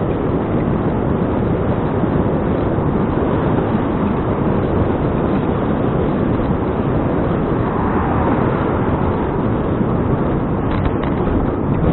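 Steady rushing wind noise on an action camera's microphone while cycling, with the low rumble of riding under it.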